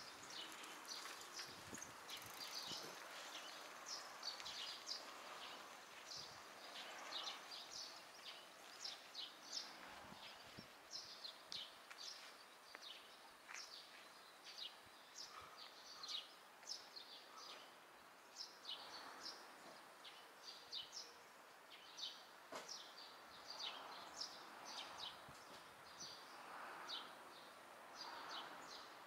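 Small birds chirping faintly over quiet street ambience: repeated short, high chirps that drop in pitch, several close together at a time.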